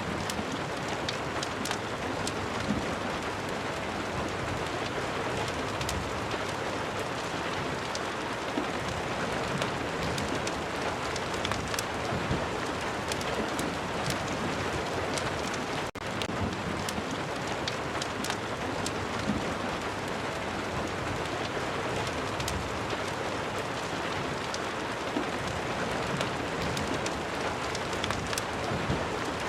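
Steady rain pattering, mixed with scattered sharp crackles of a wood fire. The sound drops out for an instant about halfway through.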